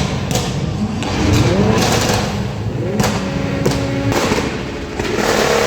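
Car engines being revved hard: several rising sweeps in pitch, one held high for about a second near the middle, with a few sharp cracks about three to four seconds in.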